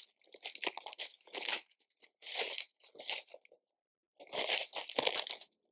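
Hands rummaging through loose LEGO pieces while searching for a part: plastic bricks rattling and crinkling in a string of short bursts, with a brief pause a little past the middle.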